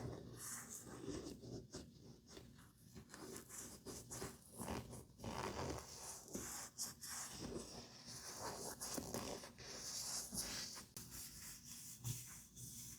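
Makeup tools brushing and rubbing against a mannequin face: soft, irregular scratchy strokes with the odd light click.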